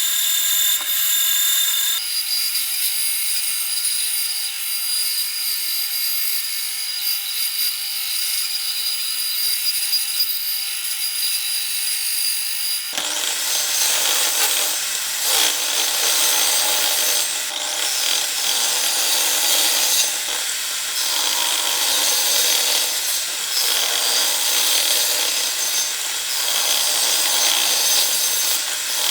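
Power tools working wood: a steady motor whine with high tones. About halfway through it changes abruptly to a harsh, rough rasping of wood being cut or sanded.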